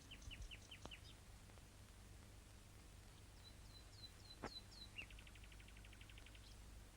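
Faint bird calls: a quick series of short descending chirps, then another run of chirps a few seconds in, then a fast, even trill of about ten notes a second near the end, with a couple of faint clicks.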